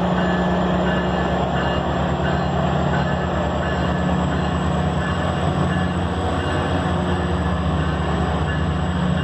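Steady, loud machine running noise with a constant low hum and a fast low throb underneath.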